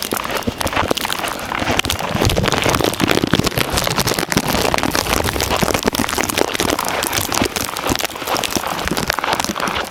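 Boots crunching through deep snow, a dense, irregular crackling that does not let up.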